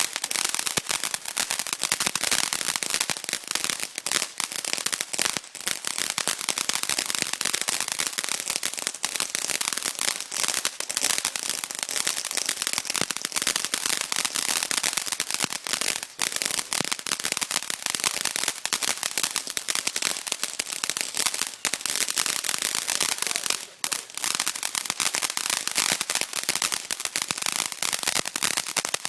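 Mini firecrackers going off in a continuous rapid crackle of sharp pops, with a brief lull near the end.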